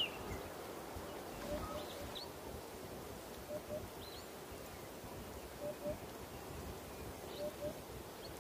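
A bird gives soft, low hoots in pairs, about one pair every two seconds, over a faint forest hiss with a few faint high chirps.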